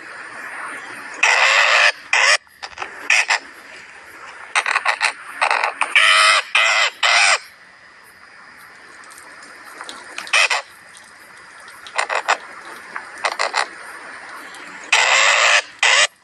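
A bird giving a series of harsh calls, some short and some about a second long, with gaps of a second or more between them.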